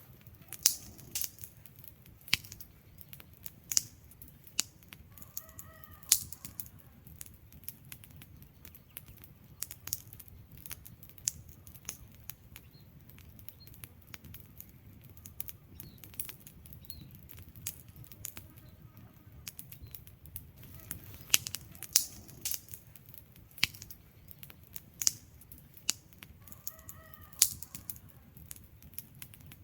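Wood fire in a fireplace crackling, with irregular sharp pops from the burning logs over a low steady rumble of flame.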